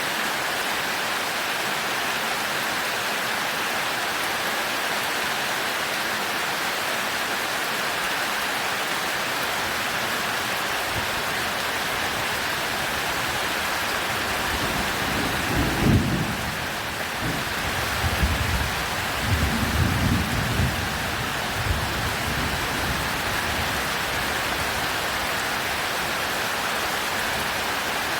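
Heavy rain falling steadily on a roof, with a thunderclap about halfway through followed by several seconds of deep rolling rumbles.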